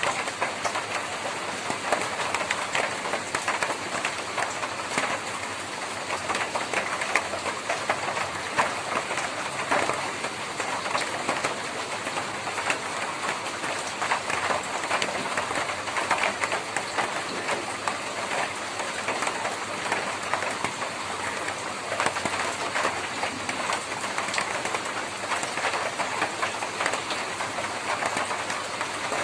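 Steady rain on a tin roof: a dense, even patter of drops hitting sheet metal, with no letup.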